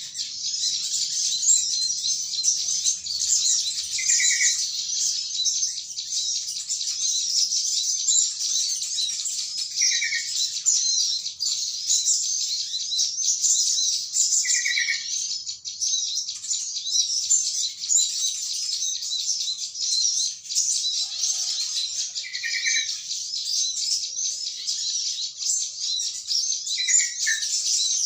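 Dense chorus of small birds twittering continuously at high pitch. About every five seconds a short, lower call breaks in, in line with a yellow-vented bulbul calling its flock. This is a bird-lure recording used to attract small birds.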